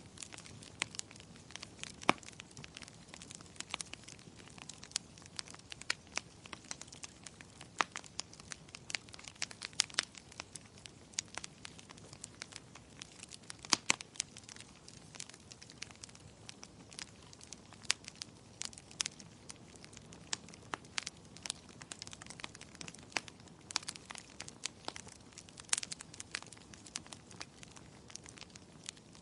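Wood fire crackling in a fireplace: many irregular sharp pops and snaps, a few much louder than the rest, over a faint steady hiss.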